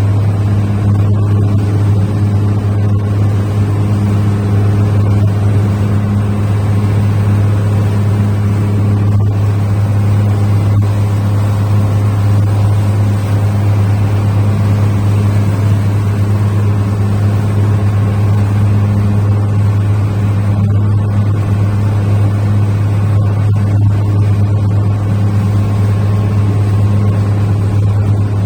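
Small river ferry's engine running steadily: a deep, even drone with a strong low hum that does not change.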